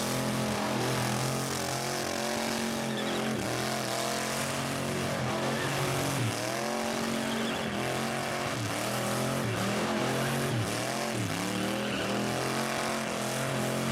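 Rat rod engine revving hard, its pitch repeatedly dipping and climbing back as the throttle is worked, over a steady lower drone.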